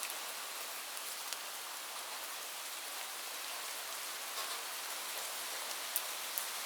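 Steady rain falling in an even hiss, with single drops ticking sharply now and then, one clearer tick about six seconds in.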